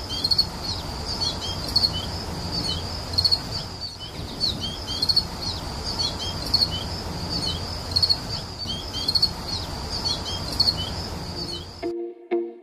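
High-pitched chirping, short curved notes repeated in quick clusters, over a steady low background noise. It cuts off abruptly near the end, when plucked music comes in.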